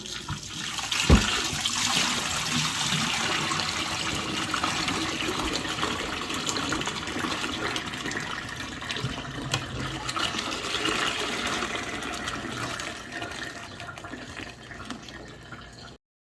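Pressure washer spraying water in a steady jet, with a single knock about a second in; the spray cuts off suddenly near the end.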